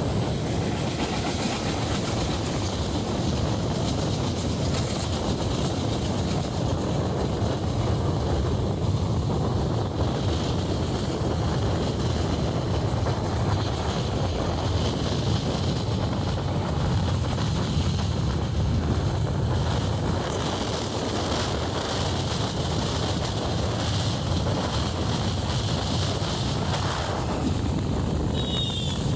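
Steady rumble and rush of a moving train, continuous with no clear wheel-beat.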